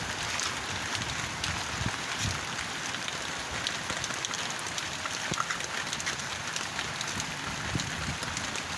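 Steady rain falling, with a constant hiss dotted with many small raindrop ticks.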